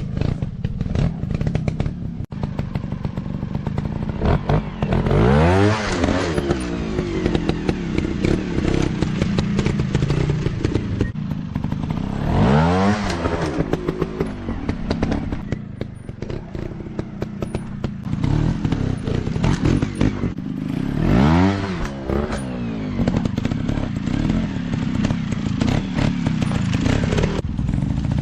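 Dirt bike engines running under load, with four sharp blips of throttle several seconds apart where the pitch climbs steeply and falls back, over a steady lower engine drone.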